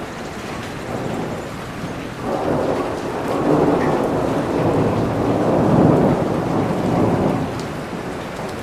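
Heavy rain falling steadily while a long roll of thunder builds about two seconds in, peaks near the six-second mark and dies away shortly before the end.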